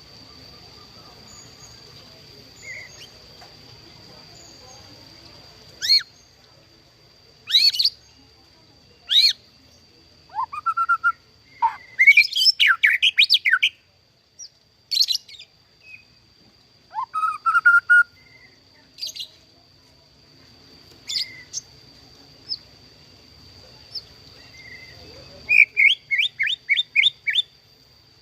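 White-rumped shama singing in separate bursts: sharp upward-sweeping notes, rising whistles, fast trilled runs, and near the end a quick series of repeated notes. A steady high-pitched tone runs underneath.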